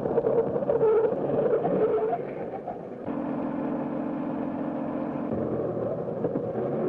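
Early-1930s automobile engine running as the car drives along a dirt road, with a steady even pulsing from about three seconds in. A wavering tone sounds over the first two seconds.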